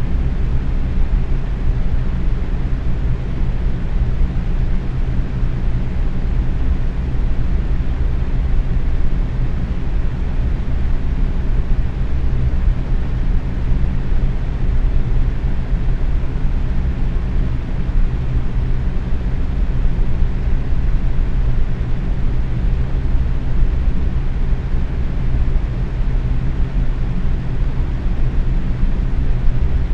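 Box fan running steadily on medium speed: an even rush of air over a low motor hum.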